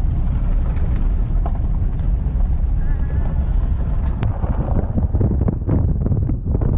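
Strong wind buffeting the microphone: a loud, continuous low rumble that rises and falls with the gusts.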